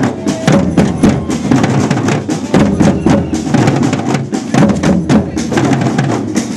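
Procession drums playing a rhythm of sharp, repeated strikes, with crowd voices underneath.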